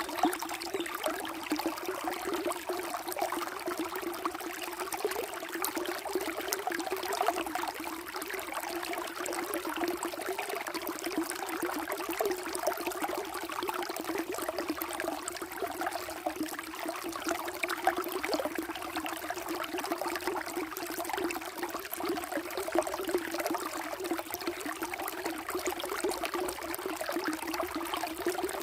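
Flowing water running and trickling steadily, with a constant stream of small splashes and gurgles.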